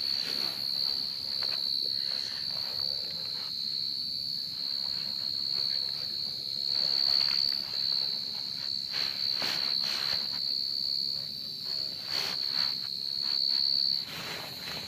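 Crickets calling in a steady, unbroken high-pitched trill, with a few brief rustles and knocks over it.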